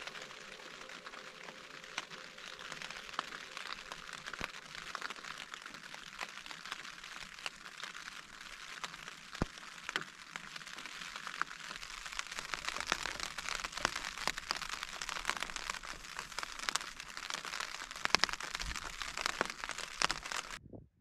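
Rain falling on a tent's fabric, heard from inside the tent: a steady hiss dotted with many sharp individual drop hits. It grows a little heavier in the second half and stops suddenly near the end.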